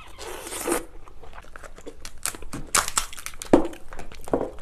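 King crab leg shell crunching and cracking as kitchen scissors cut through it: a run of sharp clicks and snaps, loudest about three and a half seconds in.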